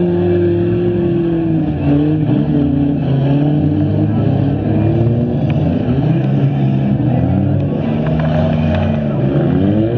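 Several stock front-wheel-drive cars' engines running together on a dirt track. They rev up and down, each rising and falling in pitch, with a couple of short knocks.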